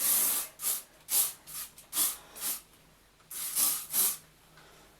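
Hairspray sprayed onto teased hair in a run of short hissing spritzes, about eight, with one longer spray a little over three seconds in.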